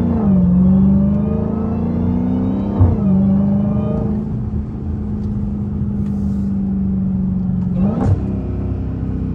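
Supercharged 6.2-litre HEMI V8 of a straight-piped Dodge Hellcat Redeye running under light throttle while driving. The engine note climbs slowly, breaks sharply about three seconds in, holds steady, then jumps up briefly near the end.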